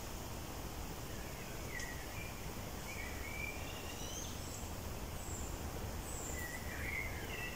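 Small birds singing: short chirps and warbling phrases from about two seconds in, over a steady low outdoor rumble.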